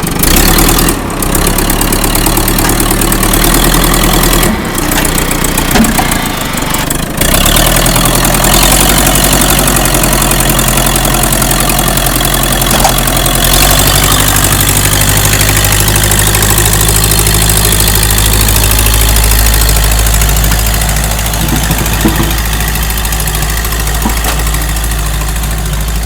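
Tractor engine running steadily. The sound drops out briefly a few times in the first seven seconds, and the engine note steps up and grows stronger about halfway through.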